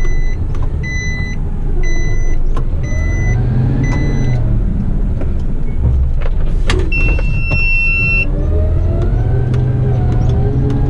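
Heavy rigid waste truck's diesel engine running, with an electronic warning beeper sounding about once a second for the first four seconds, then one longer high beep. Near the end the engine note rises as the truck pulls away.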